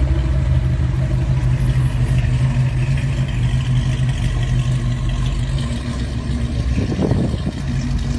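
Big-block engine of a custom 1934 Chevrolet hot rod idling steadily, with a brief louder burst about seven seconds in.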